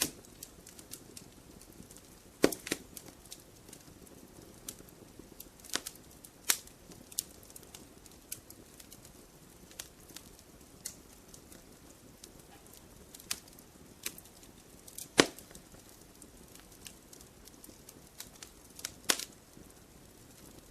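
Wood campfire crackling: irregular sharp pops and snaps over a soft low hiss of the burning, with the loudest pops about two and a half and fifteen seconds in.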